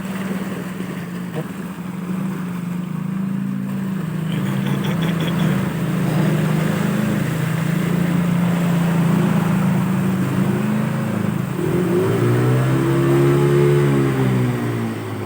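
Motor vehicle engine running steadily, then revving up and back down about three-quarters of the way through.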